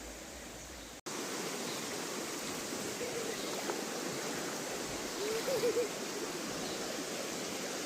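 Steady rush of a flowing stream, starting after a sharp cut about a second in, with a few faint, brief pitched sounds near the middle.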